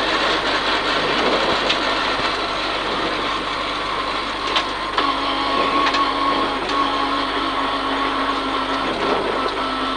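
Rally car engine and drivetrain of a rear-wheel-drive Peugeot 306 running, heard from inside the cabin. A steady tone comes in about five seconds in.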